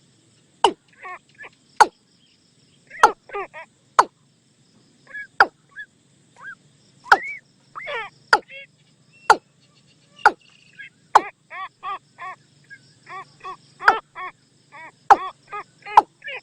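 Watercock calls used as a decoy lure: sharp, clicking notes mixed with short rising-and-falling calls, coming irregularly at first and then as a quicker run of repeated notes in the second half.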